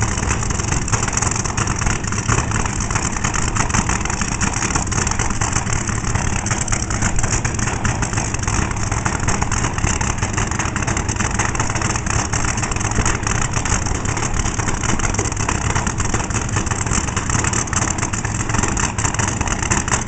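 Nostalgia drag cars' open-header engines idling at a cackle fest, a loud, rough, rapid-firing 'cackle' that holds steady without big revs.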